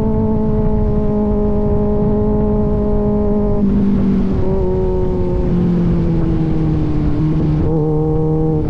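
Kawasaki Z900's inline-four engine through an AR aftermarket exhaust, running at a steady cruising pitch, then easing off so the pitch sinks gradually over the last few seconds.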